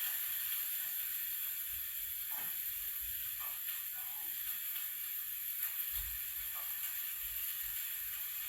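Chopped onions and garlic sizzling in hot oil as they fry, a steady hiss.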